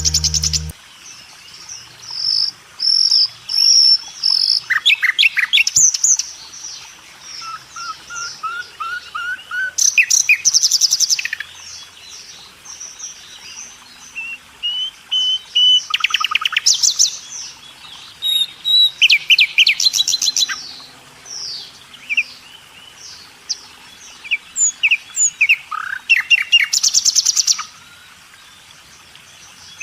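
Several birds chirping and calling together: short whistled notes and slides, with fast rattling trills that come every few seconds.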